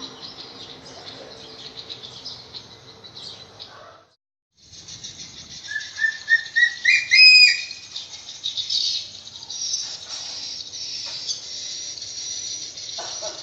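Steady, fast-pulsing insect chorus, with a bird calling a run of short notes rising in pitch and ending in a longer, higher note about six seconds in. The sound cuts out completely for about half a second around four seconds in.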